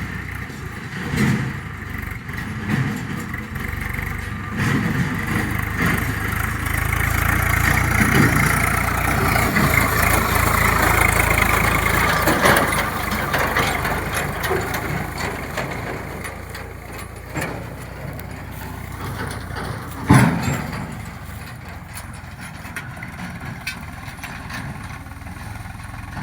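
Tractor diesel engine running, growing louder for several seconds partway through and then easing back. A single sharp knock comes about 20 seconds in.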